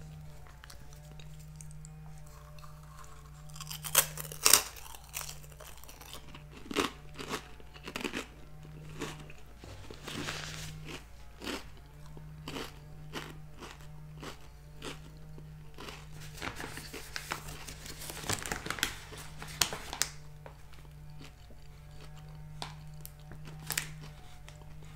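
A person crunching and chewing crisp, hollow Garden Veggie Straws (a potato-and-vegetable snack): irregular sharp crunches, the loudest about four seconds in, with stretches of chewing throughout.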